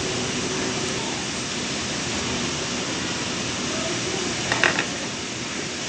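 Steady background hiss, with a short cluster of small metallic clicks about four and a half seconds in from the feed dog and screws being fitted into a sewing machine.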